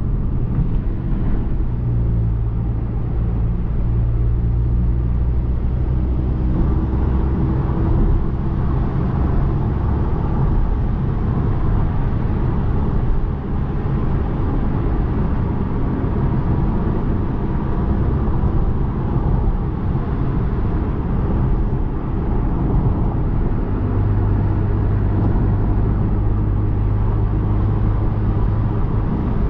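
Tuned Volkswagen Golf R's turbocharged 2.0-litre four-cylinder engine running at a steady, even pace while driving, with a constant low drone and road noise.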